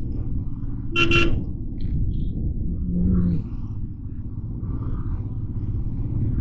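Steady low rumble of a motorcycle riding through city traffic, with a short vehicle horn honk about a second in and a brief lower tone about three seconds in.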